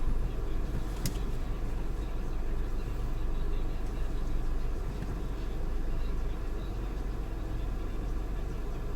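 Steady low rumble of a car, with one sharp click about a second in.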